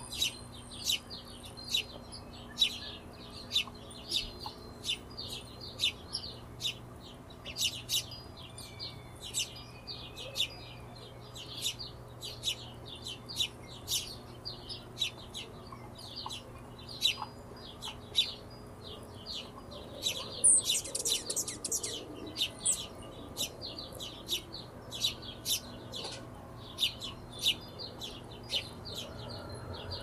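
Small birds chirping: a quick, irregular run of short, sharp, high-pitched chips, several a second, with a denser flurry about two-thirds of the way through, over a faint steady low hum.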